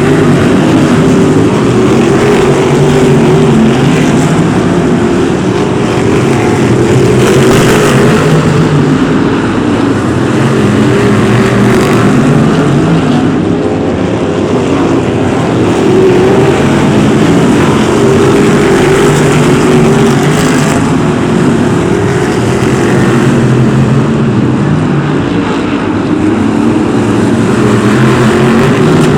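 BriSCA F1 stock cars racing: several big V8 engines running hard together in a loud, unbroken din that swells and eases a little as the cars come round.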